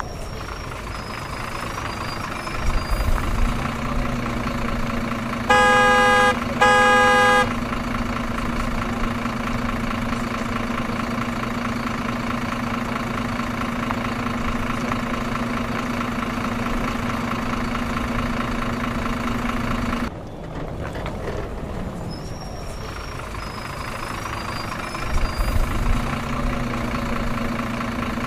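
Truck engine running steadily, with two long horn honks a few seconds in. The engine sound cuts out briefly about two-thirds of the way through, then starts up again.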